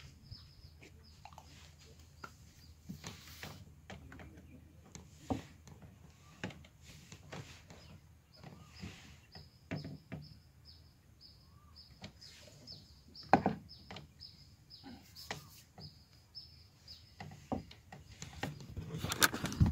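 A small bird's short, high chirp repeating about twice a second over quiet outdoor background noise. Scattered light clicks run through it, with a sharper knock about two-thirds of the way through and a burst of rustling handling noise near the end.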